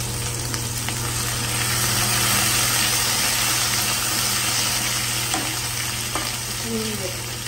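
Potato wedges and cumin seeds sizzling steadily in hot oil in a nonstick kadai, stirred and turned with a spatula partway through, over a steady low hum.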